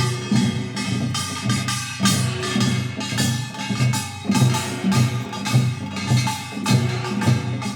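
Korean traditional music with drums and sharp percussion strikes in a steady rhythm over held low tones.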